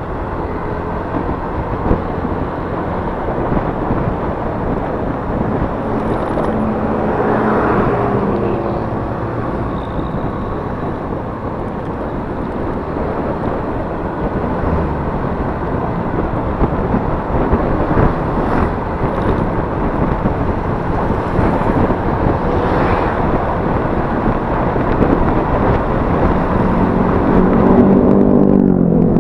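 Yamaha Mio S 125 scooter riding along, its single-cylinder engine running under a constant rush of wind noise on the microphone. A pitched engine note rises briefly about seven seconds in and again near the end.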